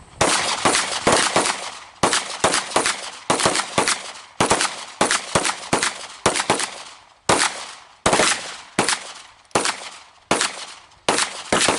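Rapid gunfire: about thirty sharp shots in quick strings of two to five, each shot a few tenths of a second apart, with short pauses between the strings.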